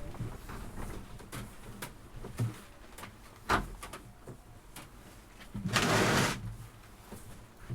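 Fishing nets being handled: scattered small clicks and rustles, with one louder rustling swish lasting about a second, about six seconds in.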